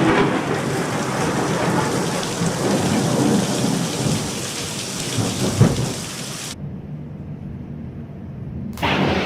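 Thunder rumbling and slowly dying away over heavy rain, with a sharp crack about five and a half seconds in. The rain noise cuts off abruptly about six and a half seconds in, and a short loud burst comes near the end.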